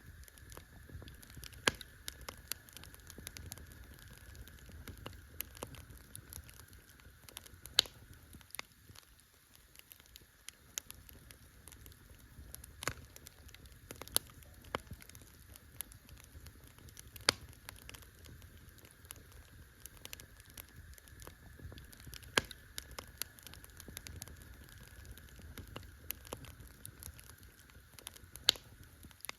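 Wood campfire crackling, with sharp pops every second or two over a low steady rumble of the burning fire.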